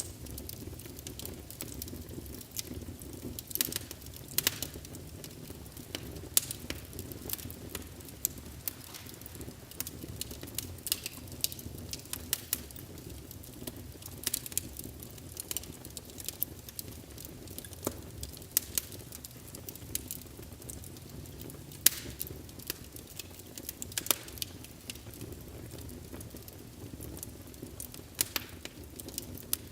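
Wood logs burning in a fireplace: a steady low rumble of flames with frequent irregular crackles and sharp pops.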